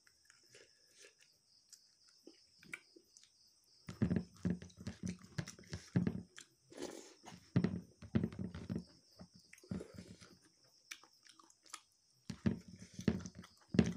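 A person chewing a mouthful of meat close to the microphone, in irregular wet bouts. It is quiet for the first few seconds, the chewing runs for about five seconds, pauses, then resumes near the end.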